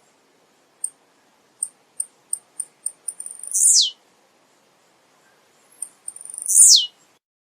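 Male blue-black grassquit (tiziu) singing: a run of short high chips, then a loud buzzy note falling in pitch. This happens twice, about three seconds apart.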